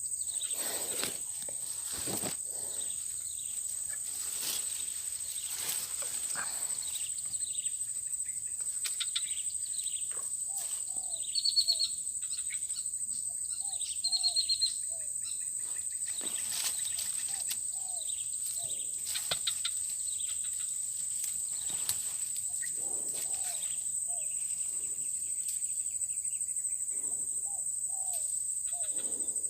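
A steady, high-pitched insect chorus of crickets, with short bird chirps now and then and scattered light clicks and rustles.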